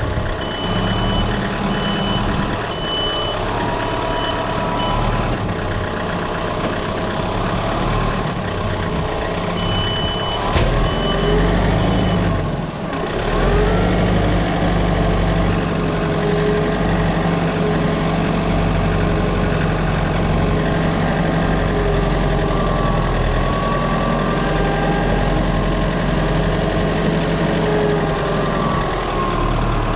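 Engine of a working machine running steadily under changing load, with a high backup alarm beeping twice in spells: in the first few seconds and again around ten seconds in.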